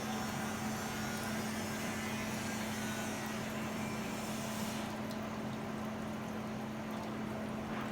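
Fagor FI-120 hood-type dishwasher running at the very end of its cycle, just after the rinse: a steady machine hum with a constant low tone. The higher hiss drops away about five seconds in as the cycle winds down.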